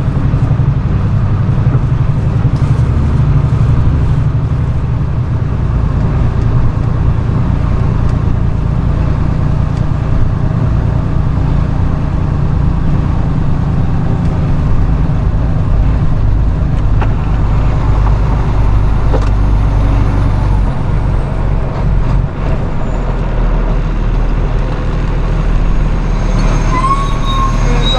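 Flatbed straight truck driving: a steady engine drone with road rumble. A faint high whine slowly drops in pitch through the middle.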